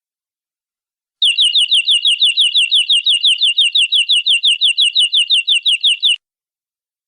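Domestic canary singing one fast trill: the same short falling note repeated about seven times a second for about five seconds. It starts about a second in and stops abruptly.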